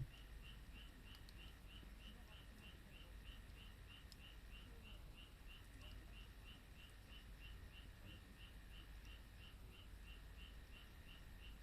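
Faint high chirps from a small animal, repeated evenly about four times a second over a low steady background rumble, with one soft thump at the very start.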